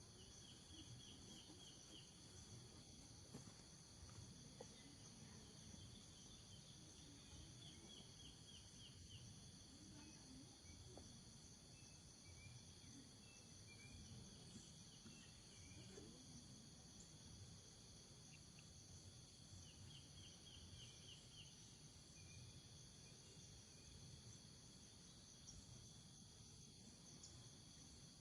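Faint chorus of insects: a steady, high-pitched trilling drone, broken three or four times by short runs of quick chirps.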